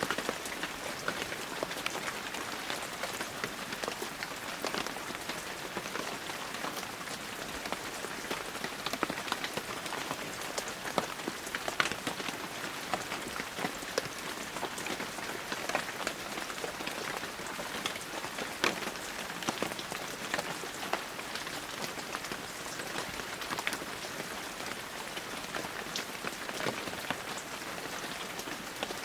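Heavy rain falling steadily, an even hiss scattered with many sharp individual drop hits.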